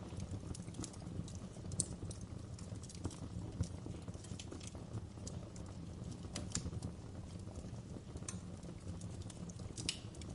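Fire crackling in a fireplace: a steady low rumble of burning under irregular crackles and pops, with a few sharper snaps standing out.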